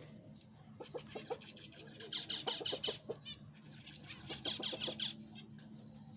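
Farm poultry calling: two bursts of rapid repeated notes, one about two seconds in and another about four and a half seconds in, with a few short clucks before them.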